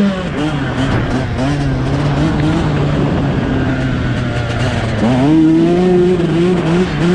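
2011 Yamaha YZ125's 125cc two-stroke engine revving up and dropping back as the throttle is worked, with a long climb in revs about five seconds in.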